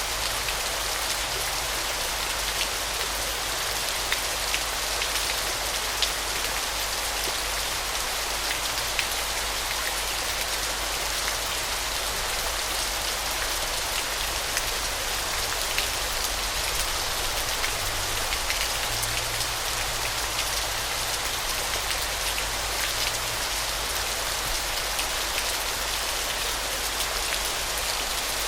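Falling water splashing, a steady, even hiss with scattered droplet ticks and a low rumble underneath.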